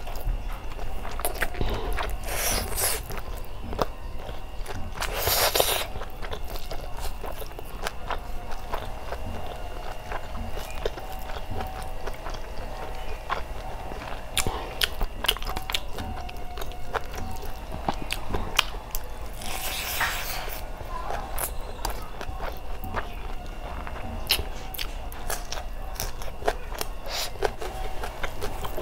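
Close-miked mouth sounds of someone eating rice and curry by hand: wet chewing and lip smacks made of many small clicks, with the squish of fingers mixing rice and curry. A few louder short rushes of noise stand out, about 2 s, 5 s and 20 s in.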